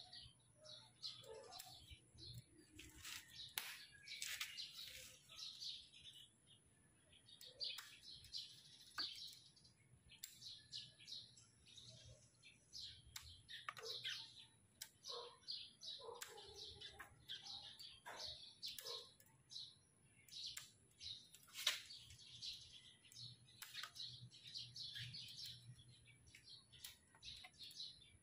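Small birds chirping on and off throughout, with a few sharp clicks from pruning shears snipping bonsai branches, the loudest about two-thirds of the way in.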